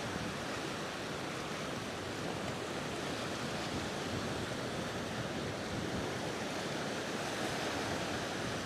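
Steady wash of sea surf and waves.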